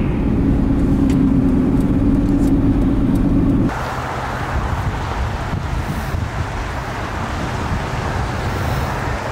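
Car driving on a snowy road: a steady engine and tyre drone with a low held hum. A few seconds in it changes abruptly to a broader, even hiss of road and traffic noise.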